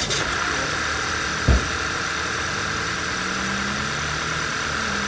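Audi 2.0T turbocharged four-cylinder engine idling steadily just after a start, with a single short low thump about a second and a half in.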